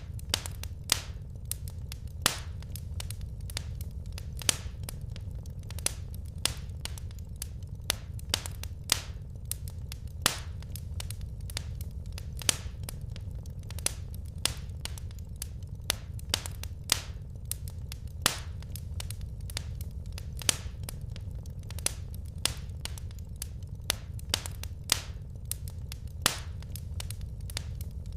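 Wood fire crackling in a fireplace: irregular sharp pops and snaps, several in most seconds, over a steady low rumble.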